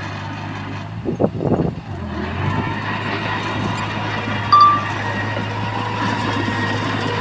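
Diesel engine of heavy earthmoving machinery running steadily. A few louder knocks come about a second in, and a brief high tone sounds midway.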